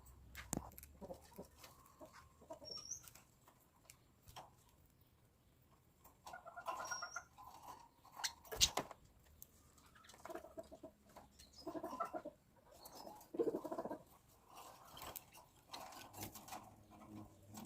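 Pet birds calling in short, scattered bursts of chirps and chatter, with a few sharp clicks among them.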